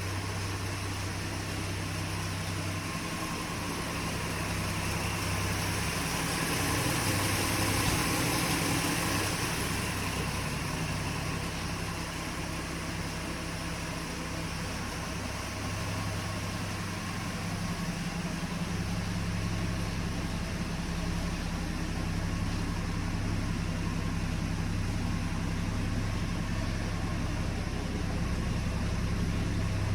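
1966 Ford truck's freshly rebuilt 240 inline six-cylinder engine idling steadily, a little louder for a few seconds early in the run.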